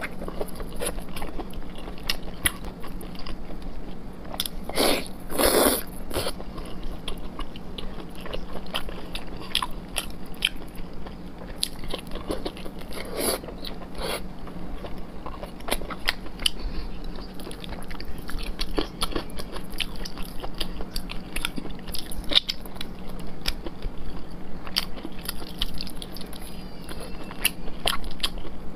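Close-miked chewing of soft, sticky braised pork belly: wet mouth smacks and sharp clicks in quick succession, with a louder spell about five seconds in.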